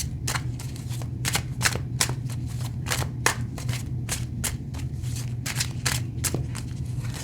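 Tarot cards being shuffled and handled: a run of sharp card snaps and slaps, about three or four a second, over a steady low hum.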